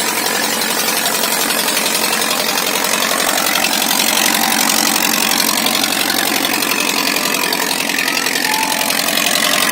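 Farmtrac 6055 tractor's diesel engine running steadily and loudly, working under the load of two harrows.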